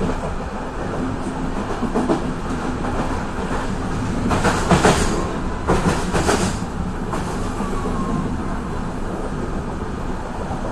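Passenger train running, heard from inside the carriage: a steady rumble with wheels clacking over rail joints. A louder run of clatter comes around the middle as the train passes over a road level crossing.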